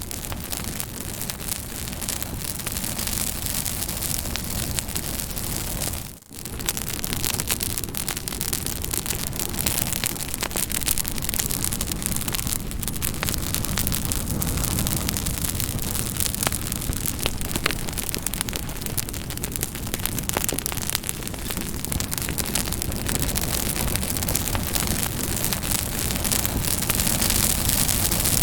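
Campfire burning: a steady hiss of flames with many quick crackles and pops, briefly dipping in level about six seconds in.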